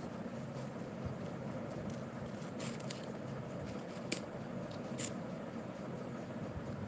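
Quiet steady background hum with three brief, faint clicks or scratches spread through it.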